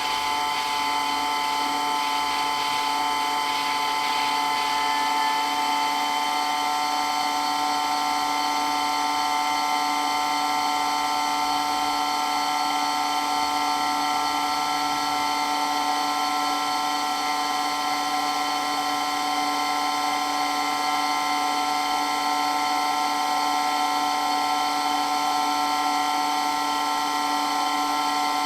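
Electric water pump running steadily, a constant whine made of several steady tones with no change in speed.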